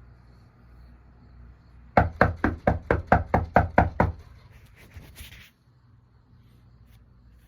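A rapid run of about a dozen sharp knocks, roughly five or six a second, lasting about two seconds.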